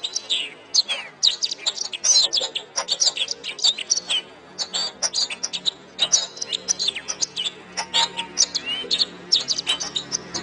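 Domestic canary singing a fast, continuous song of short chirps, rapid trills and a few arching whistles, with hardly a pause. A faint low steady hum comes in underneath about four seconds in.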